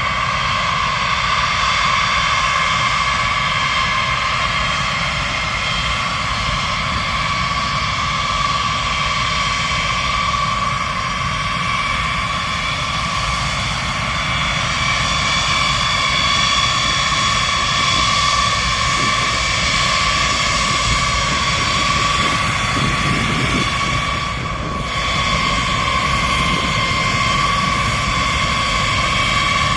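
Jet aircraft engines running steadily, a constant roar with a high steady whine on top.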